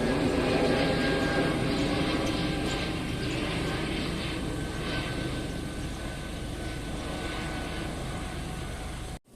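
Airbus A320neo jet engines running, a steady rushing drone that slowly fades and then cuts off suddenly near the end.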